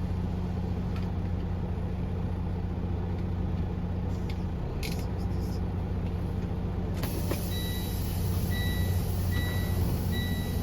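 Semi truck's diesel engine running steadily. About seven seconds in, a hiss of air starts and a reversing alarm begins beeping at an even pace.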